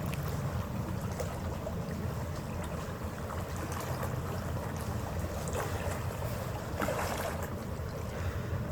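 Steady low rumble of a harbour ferry under way, with water rushing along the hull and wind on the microphone; a couple of brief louder washes come about five and a half and seven seconds in.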